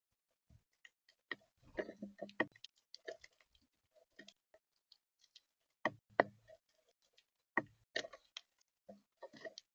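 Irregular sharp clicks and knocks, a few with a dull thump, from birds pecking seed and shifting their feet on a camera-equipped bird feeder right by its microphone. They come in clusters, about two seconds in, near six seconds and again toward the end.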